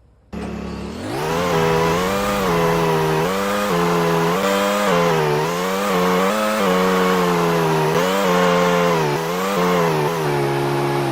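A small engine starts abruptly and is revved up and down repeatedly, settling lower near the end.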